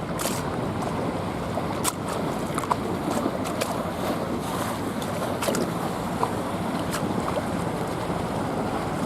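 Water lapping against the waterside, with small sharp splashes every second or so over a steady low rumble.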